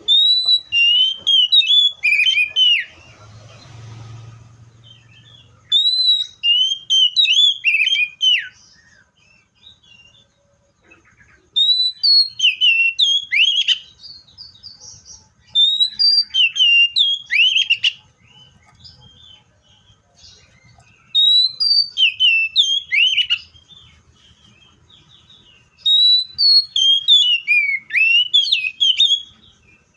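Magpie-robin singing loud, clear whistled song phrases of quick sliding notes, six phrases each lasting two to three seconds, with short pauses between them.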